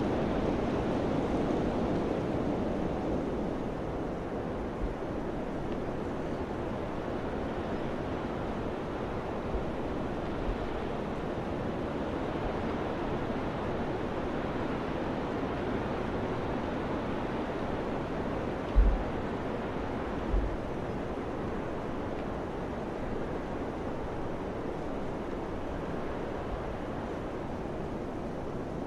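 Summer wind blowing steadily, a little stronger at first and easing after a few seconds, with two brief low thumps about two-thirds of the way in.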